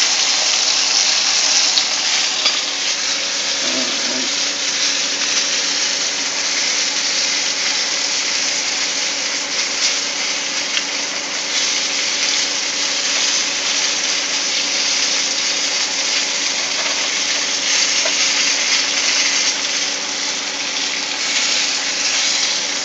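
Flour-coated squirrel pieces sizzling steadily in a frying pan, with a few faint crackles.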